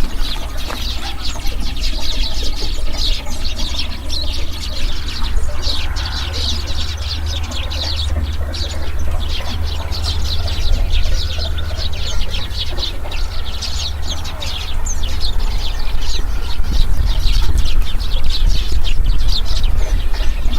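A flock of small birds chirping and chattering all at once, a dense, continuous chorus of short high calls, over a steady low rumble.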